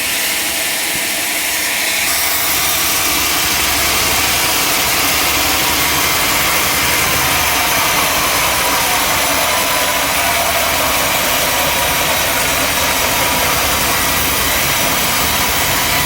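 Sawmill machinery running steadily, an engine sound with a broad hiss that thickens about two seconds in and then holds.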